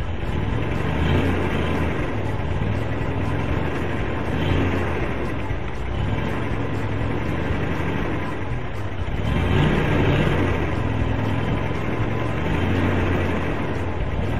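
A car engine running at low speed, swelling louder a few times: about a second in, around four and a half seconds, and most strongly around nine to ten seconds.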